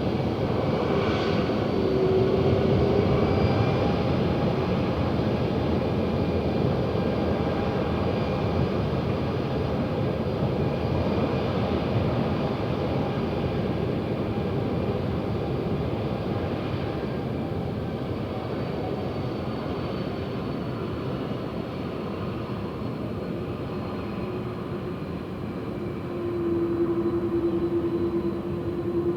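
Airbus jet airliner's turbofan engines running with a steady rush and a thin whine. About 26 s in the engine noise grows louder and a steady low hum comes in.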